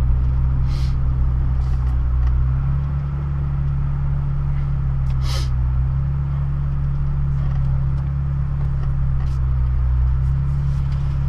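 2002 Honda Civic Si engine running steadily while the car is driven, its hum shifting slightly in pitch about two and a half seconds in. Two short sharp clicks sound, about a second in and again near the middle.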